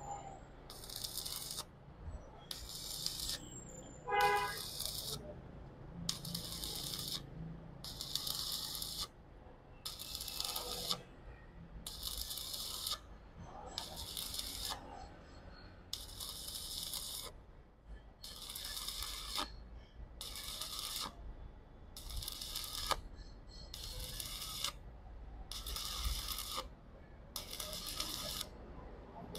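Stick-welding arc from a Lucky 285 inverter welder in MMA mode, burning a 2.5 mm electrode at 130 A. It makes a steady crackling sizzle that surges and drops in regular pulses roughly every one and a half seconds, and the rod runs smoothly.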